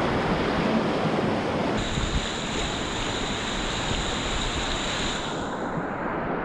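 Whitewater of the Isère rushing steadily, with wind on the microphone. About two seconds in, a steady high whine joins it and fades out near the end.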